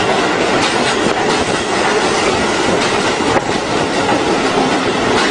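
A train running along the track: a loud, steady rush of wheels on rail, with repeated clacks as the wheels cross the rail joints.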